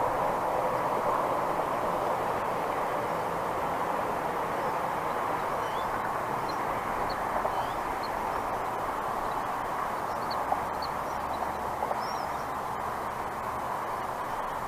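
Steady outdoor background noise at a bald eagle nest, with a few faint, short, high bird chirps in the middle stretch.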